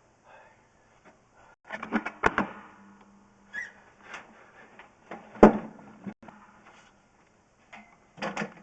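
Irregular knocks and rattles from a drain-inspection camera's push cable being worked while the camera head is stuck in the drain line. There is a cluster of clatter about two seconds in and a single sharp knock about halfway through.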